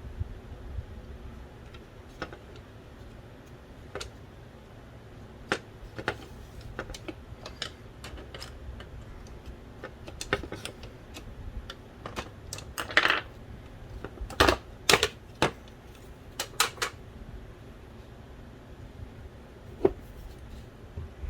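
Irregular clicks, taps and short scrapes of small plastic and metal parts being handled and knocked against a work surface while a DVD drive is taken apart. The loudest cluster of clicks and a brief scrape come about halfway through.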